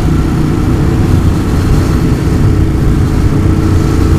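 Motorcycle engine running at a steady speed in traffic, with an even, unchanging drone.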